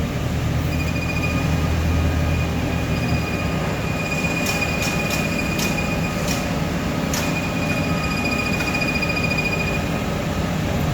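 Big forklift running as it drives, a steady low engine drone with a high whine that comes and goes. Several sharp rattles or clanks sound in the middle.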